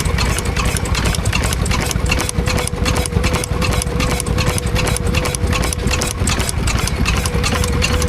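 An engine running steadily with a quick, even beat, alongside a steady whine.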